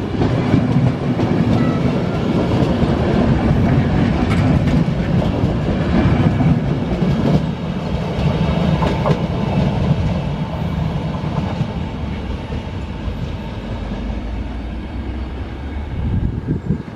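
Passenger coaches of a departing locomotive-hauled night train rolling past on the rails, a loud steady rumble of wheels on track that fades gradually as the train draws away.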